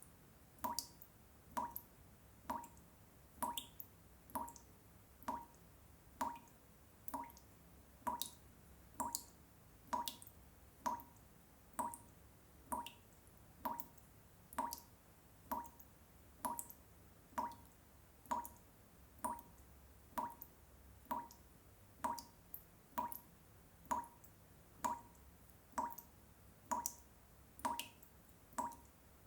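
Water dripping in a steady, even rhythm, about one drop a second, with now and then a fainter, higher drop falling between.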